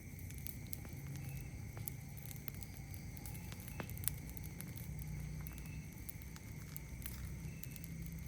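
Wood campfire crackling with scattered sharp pops, the loudest a little under four seconds in, over a steady high drone of night insects.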